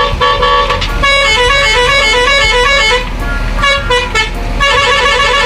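Toy cement mixer truck's electronic sound chip playing a quick beeping tune of stepping notes, with a pause near the middle before it resumes.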